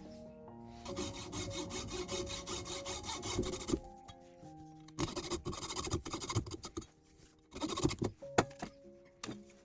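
Rasping, scraping noise of a tool or abrasive working wood, in three stretches with short gaps between them, over background music.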